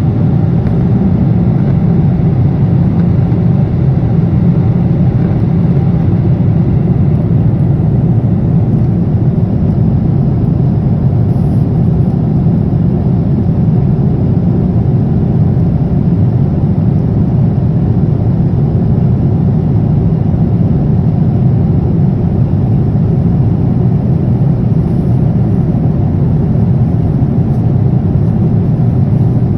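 Steady cabin noise inside a jet airliner in flight: the continuous deep rumble of the engines and airflow past the fuselage, unchanging throughout.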